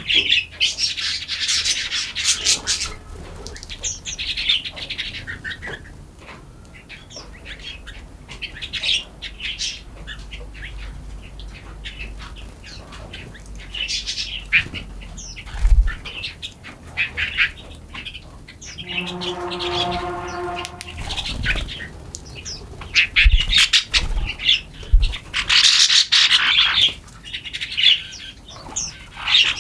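Several forest songbirds chirping and trilling in quick overlapping phrases. About two-thirds of the way through comes a lower, longer call of about two seconds with several overtones. A few low thumps fall in the middle and later part.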